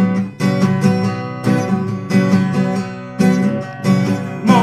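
Acoustic guitar strumming chords in a steady rhythm, with no singing: an instrumental gap between sung lines.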